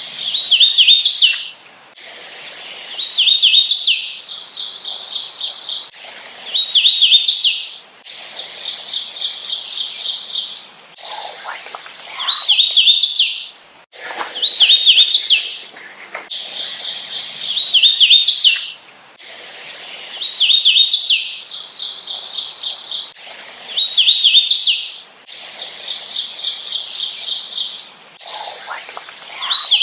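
Hooded warbler singing: its song repeated every few seconds, each a run of slurred whistled notes ending in a sharp, higher closing note. Fainter runs of evenly spaced notes fill the gaps between songs.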